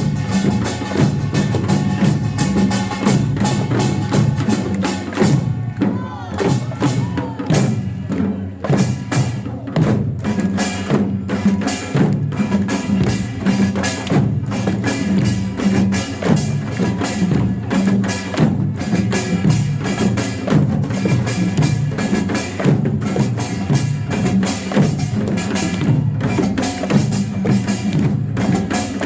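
Pungmul percussion band playing a fast, continuous rhythm: kkwaenggwari small gongs clanging over janggu hourglass drums and buk barrel drums, with jing gongs sounding underneath.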